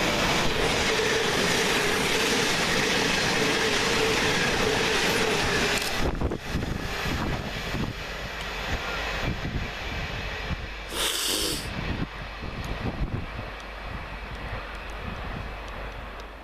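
Siemens Class 700 electric multiple unit passing through at speed: a loud rush of wheels and air with a steady electric whine, which cuts off about six seconds in. Fainter rail clatter follows, with a brief high-pitched tone near eleven seconds.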